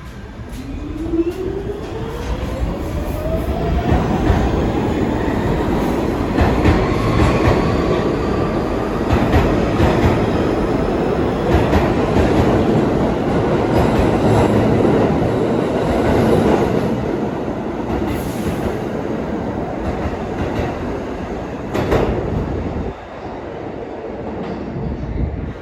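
New York City subway train pulling out of the station, its motors whining up steadily in pitch over the first nine seconds or so as it gathers speed. Under the whine are a loud rumble and sharp clicks of the wheels over rail joints.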